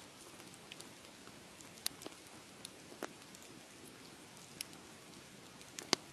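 Wood fire crackling: a soft steady hiss with a few scattered sharp pops, the loudest near the end.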